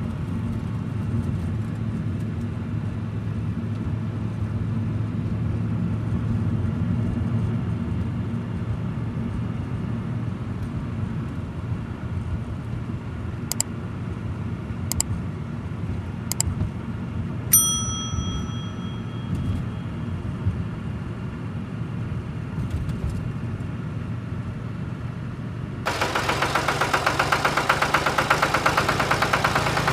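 Tractor diesel engine running with a steady low rumble. A few sharp clicks and a single bright ding come a little past halfway. About 26 seconds in, a louder engine with a fast, even clatter starts up close by.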